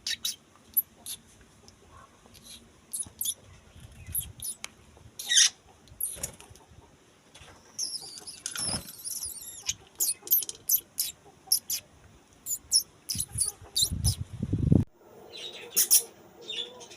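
Small birds chirping: short, high chirps scattered throughout, with a burst of rapid chatter about halfway through. Low rumbling bumps around four seconds in and again shortly before the end.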